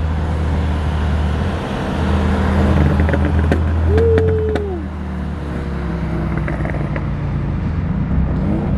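Infiniti G35's straight-piped V6 engine droning steadily as the car rolls along at low speed, the sound swelling a little for a couple of seconds, with a few clicks and a short squeak around the middle.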